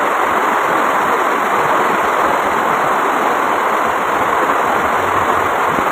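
Heavy rain falling steadily onto flooded ground and standing water, a loud, even hiss.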